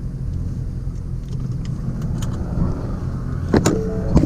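Car engine idling with a steady low rumble, with a couple of sharp clicks and a brief squeak near the end.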